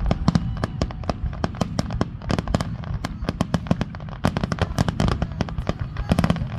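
Aerial fireworks in a finale barrage: a rapid, continuous run of sharp bangs and crackling bursts, several a second, over a deep rolling rumble.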